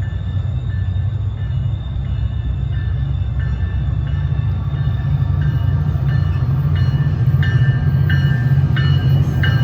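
A train running on the rails: a steady low rumble, with short high tones that come more often toward the end.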